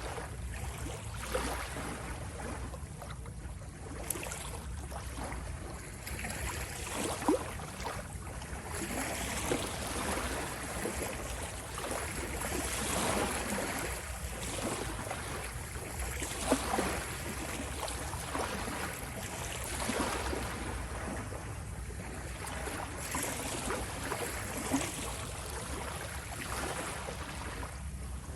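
Ocean waves washing in: a steady rush of water that swells and ebbs every few seconds, with a few short, sharp splashes.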